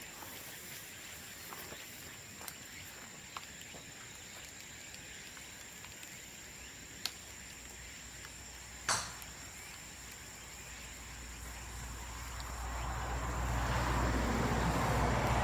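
Bamboo bonfire crackling with scattered sharp pops, the loudest about halfway through, over a thin steady high-pitched tone. In the last few seconds a rushing noise with a low rumble swells up.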